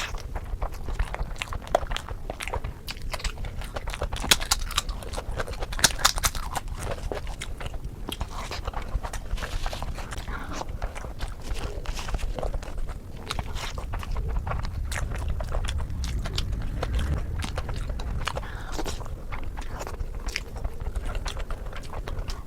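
A person chewing and biting into a fish curry meal up close for ASMR, with many sharp, crunchy clicks that come thickest a few seconds in.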